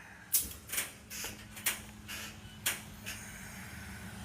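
Electric motor of a mini truck's tilt bed running with a steady hum, which starts about half a second in and stops just before the end. Sharp clicks and knocks sound over it every few tenths of a second.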